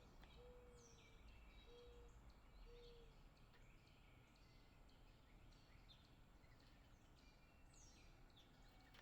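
Faint outdoor birdsong: many short high chirps and whistles from several birds, with three short low hoots in the first three seconds.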